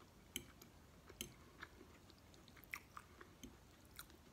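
Faint chewing of a mouthful of stuffed bell pepper, with soft wet mouth clicks every half second or so.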